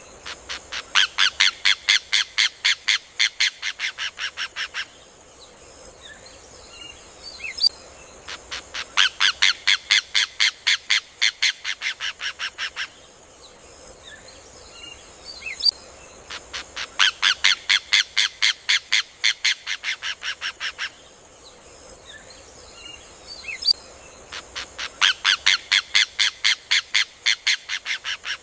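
Rufous hornero (João de Barro) singing its loud rattling song: four bouts of rapid, evenly spaced notes, about six a second, each bout lasting roughly four seconds, about eight seconds apart. Faint single chirps fall between the bouts over a steady high hiss.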